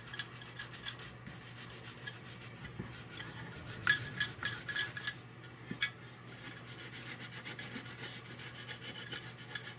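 Shoe-polish applicator rubbed rapidly back and forth over a toy locomotive's body, a quick dry scrubbing, blending Sharpie touch-up marks into the black finish. A steady low hum sits under it.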